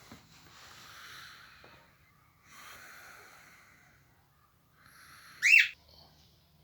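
Small cage bird making two soft, raspy hissing stretches, then one loud, sharp call about five and a half seconds in.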